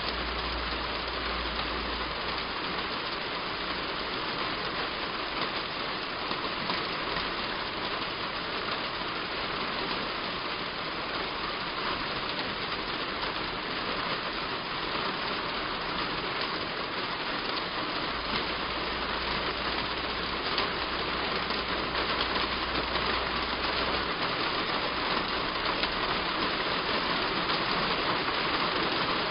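Heavy rain falling steadily on a roof, an even hiss of drops with no let-up. A faint low rumble sits underneath near the start and again for a few seconds past the middle.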